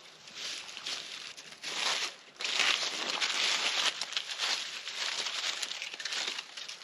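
Irregular rustling and crackling of dry twigs and tinder being handled while a campfire is built, louder after about two and a half seconds.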